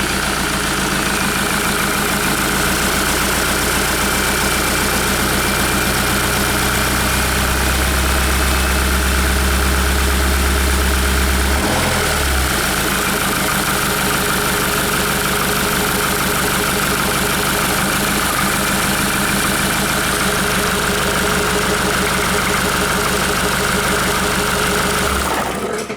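Hyundai-Kia D4CB 2.5-litre four-cylinder common-rail diesel engine idling steadily, with a deep low hum under it that drops away about halfway through.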